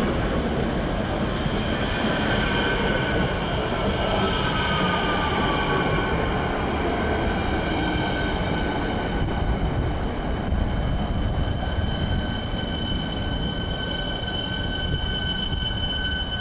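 Electric rail vehicle running on steel track: a heavy low rumble with a whine that falls in pitch over the first several seconds, and a steady high-pitched whine with overtones that grows clearer later on.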